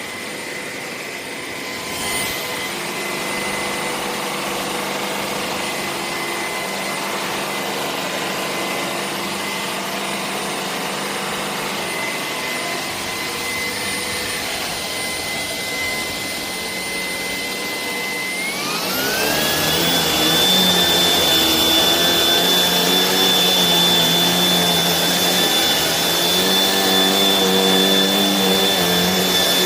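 Shark PowerDetect cordless vacuum motor running with a steady whine. About 18 seconds in it speeds up: the whine rises in pitch and the vacuum gets louder, then holds at the higher speed.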